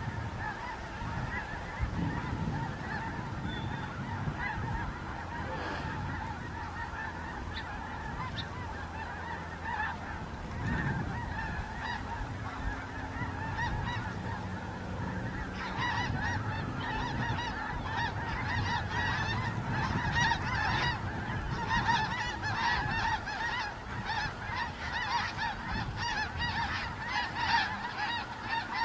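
A large flock of geese honking in a dense, continuous chorus of overlapping calls, growing louder a little past halfway through.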